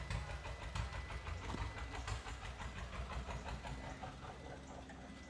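Old farm tractor engine running with a rapid, even beat, growing fainter near the end.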